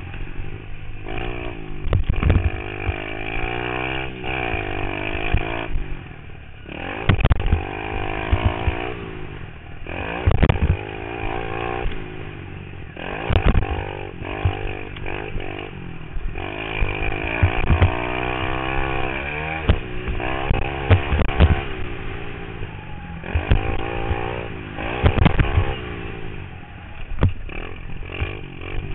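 Pit bike engine revving up and falling back again and again as it is ridden, with frequent short loud thumps.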